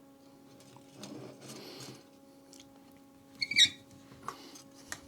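Small handling sounds of soldering work on toggle switches: faint rustling, a short sharp sound about three and a half seconds in, and a few small clicks near the end, over a low steady hum.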